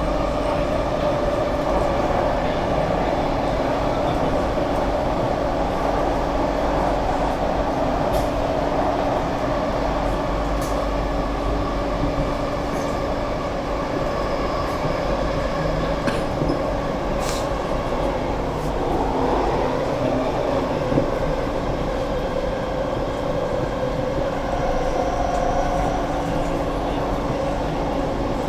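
Kawasaki-Sifang C151A metro train running between stations, heard from inside the carriage: a steady rumble of wheels and running gear with a faint motor hum and a few sharp clicks.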